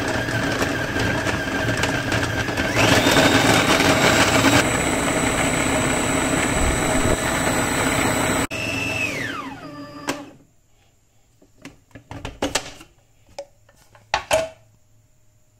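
Food processor motor grinding slices of bread into breadcrumbs, running steadily and stepping up in pitch about three seconds in. It switches off about eight seconds in, its whine falling as the blade spins down, then a few short knocks follow.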